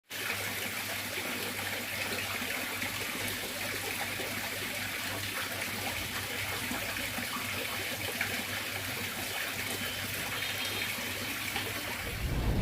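Water trickling steadily from a small bird-bath fountain, over a steady low hum.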